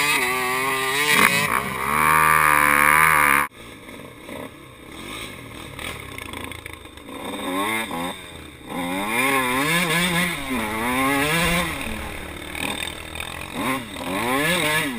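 Dirt bike engine revving up and down over and over as it is ridden. A loud stretch cuts off suddenly about three and a half seconds in, and quieter revving follows, building again in the second half.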